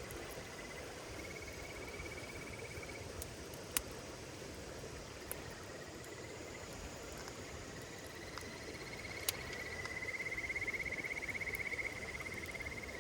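Insects trilling: a rapid, pulsed, high trill that comes in briefly early on and then runs longer and louder over the second half. A campfire crackles underneath, with a few sharp pops.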